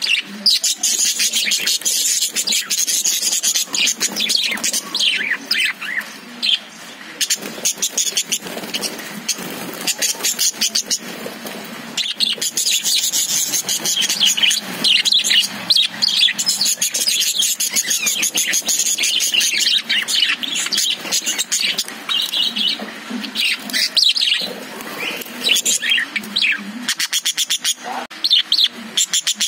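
A group of caged budgerigars chirping and chattering continuously, with many quick overlapping high chirps and warbles.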